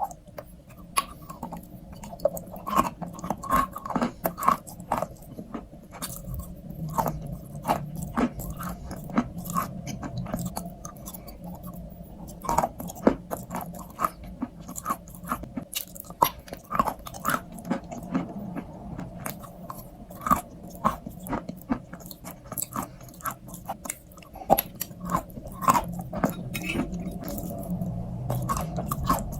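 Close-miked chewing of a crunchy strawberry crunch treat: a steady run of irregular crisp crunches and mouth clicks.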